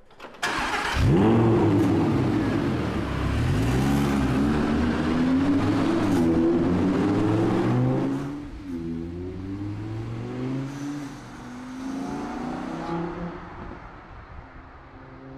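Audi R8 V10 plus's 5.2-litre V10 starting up with a sharp catch and a rising rev flare about a second in, then running loud with its revs rising and falling. About eight seconds in it drops in level and runs on quieter with a few light revs, fading toward the end as the car drives away.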